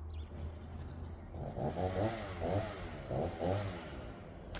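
Makkie 38cc two-stroke chainsaw running, its engine pitch rising and falling several times in quick succession in the middle before settling back to a steadier hum.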